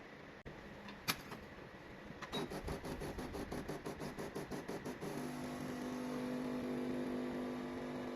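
HiBREW H10A espresso machine running a cold brew extraction: a click about a second in, then the pump pulses about five times a second for a few seconds before settling into a steady hum.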